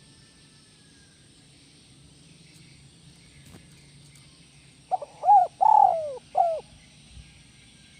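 Spotted dove (tekukur) cooing one phrase of four notes about five seconds in, the last note short, after several seconds of faint background noise.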